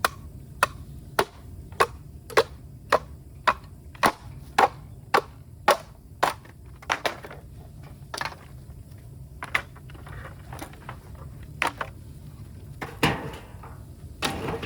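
Bamboo being chopped: a run of sharp, regular strikes about two a second, thinning out to a few scattered strikes in the second half.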